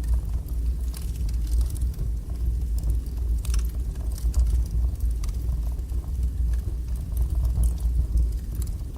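Wood fire burning strongly in a fireplace: a steady low rush of flame with scattered crackles and pops, a sharper pop about three and a half seconds in.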